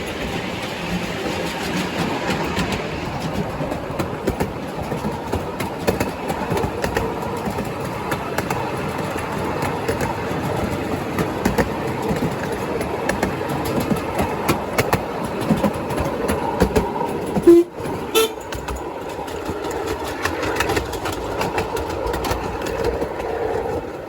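A small passenger train running along, heard from aboard: steady rumble and rattle with many small clicks from the wheels and track. There is one sudden loud knock about seventeen seconds in.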